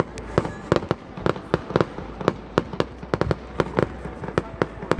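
Aerial fireworks display: a rapid, uneven run of sharp bangs and cracks, several a second, as many shells and crackling stars burst overhead at once.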